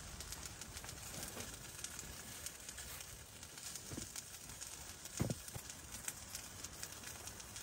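Wood fire crackling with frequent small pops, and a couple of dull knocks about four and five seconds in.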